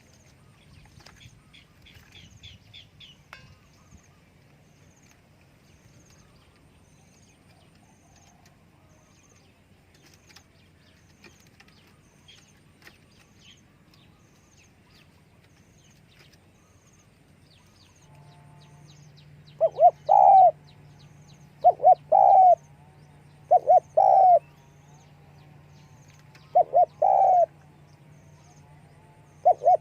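Spotted dove cooing. After a quiet stretch with a few faint high chirps, five loud two-part coos come about two seconds apart in the last third.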